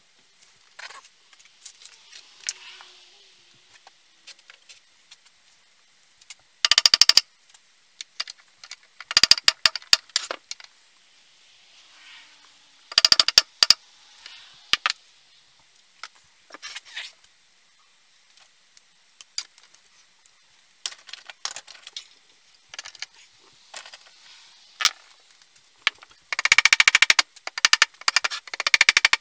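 Metal tools and chainsaw parts clinking and tapping during hands-on work, with several short bursts of rapid clicking. The longest burst comes near the end.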